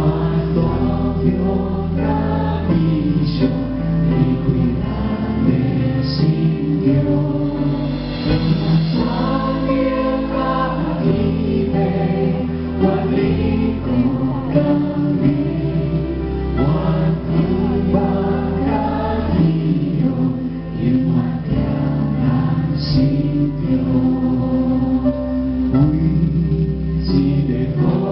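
Large choir singing a Christian song together over instrumental accompaniment with sustained bass notes.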